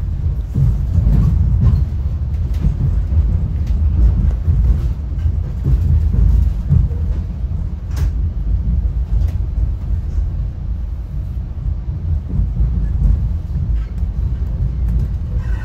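Steady low rumble of a Caltrain gallery passenger car rolling along the track, heard from inside the car, with a few sharp clicks, the loudest about eight seconds in.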